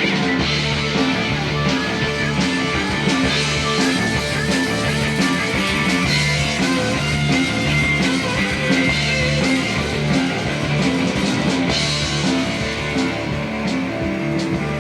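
Live rock band playing an instrumental passage: electric guitars over a steady bass and drum beat.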